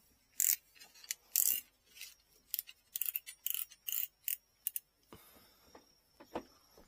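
Bamboo rod section being worked by hand: a run of short, irregular rubbing or scraping strokes, with a last few fainter scrapes and taps near the end.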